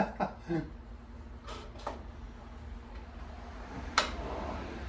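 A few light knocks, then one sharp click about four seconds in, over a steady low hum.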